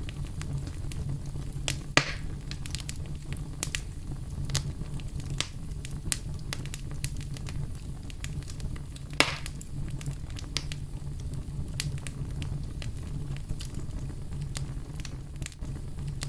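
Campfire of burning wood crackling: a steady low rumble of the flames under frequent sharp snaps and pops, with two louder pops about two seconds and nine seconds in.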